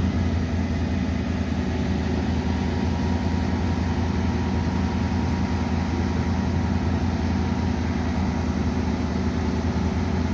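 Vehicle engine idling steadily, a low even hum that does not rise or fall.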